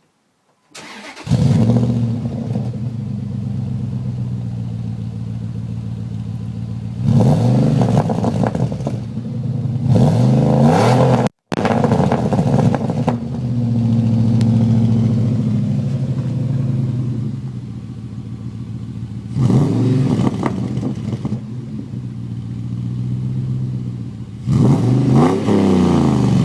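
Dodge Durango 4.7-litre V8 exhaust through a Walker muffler: the engine starts about a second in, idles, and is blipped several times, each rev rising and falling back to idle. The sound cuts out for a split second near the middle.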